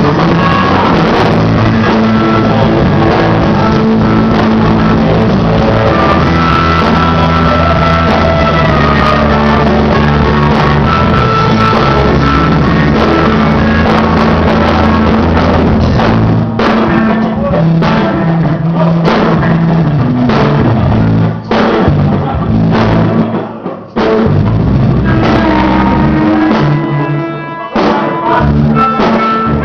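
A rock band playing, with a drum kit keeping a steady beat under guitar and bass.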